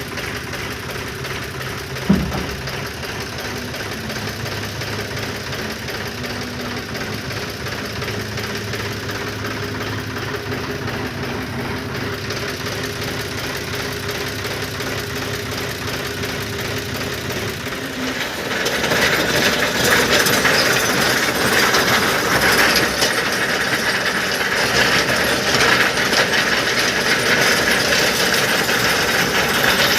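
Tractor engine running steadily with a mechanical clatter from the stone-picker machine it drives, and a single sharp knock about two seconds in. About eighteen seconds in, the sound turns louder and harsher, a dense rattling clatter.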